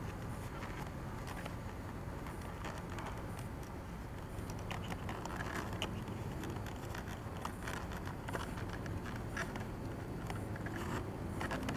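Small clicks and scrapes of hands fitting parts and connectors on a foam RC jet model during assembly, growing busier from about four seconds in, over a steady low background rumble.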